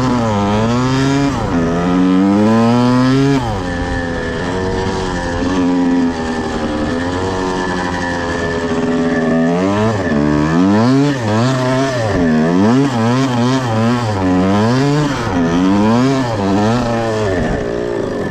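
1979 Yamaha IT175 two-stroke dirt bike engine revving up and down as it is ridden, its pitch rising and falling again and again. It runs lower and steadier for a few seconds after the start, then revs in quick surges through the second half.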